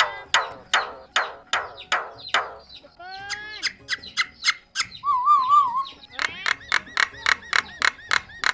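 Pet myna calling: a quick run of sharp, repeated harsh calls, about three a second, broken by rising whistles about three seconds in and a wavering whistle near the middle, then another fast string of calls.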